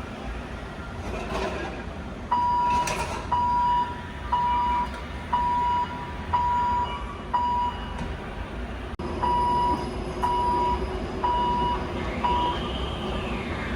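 A vehicle backup alarm beeping about once a second, six beeps, then after a short break four more, over a steady low engine rumble. Near the end a brief whine rises and falls.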